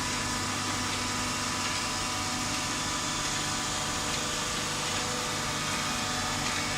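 Automatic waste-paper baling machine running: a steady, unchanging mechanical hum with a hiss over it.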